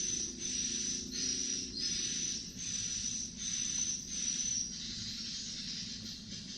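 An insect calling in a rhythm of high, hissy pulses, about one and a half a second, that stop about 4.7 seconds in and leave a steady hiss, over a low hum.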